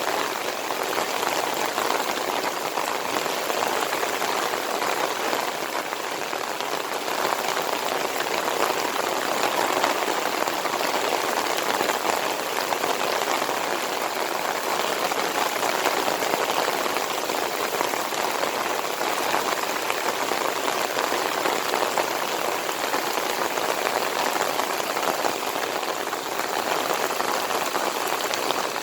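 Heavy monsoon-season rain pouring steadily, an even dense patter with no let-up.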